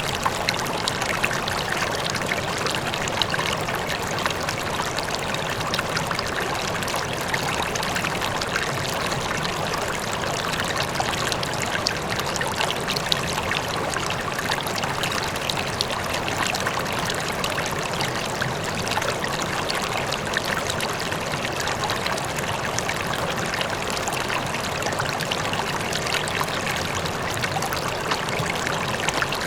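River water flowing and babbling steadily, with the constant rush of a distant waterfall beneath it.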